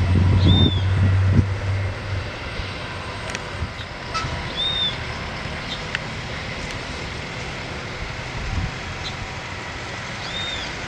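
UH-60 Black Hawk helicopter heard at a distance after takeoff: a low drone that drops away about two seconds in, leaving a steady noisy background. A short high chirp sounds three times, a few seconds apart.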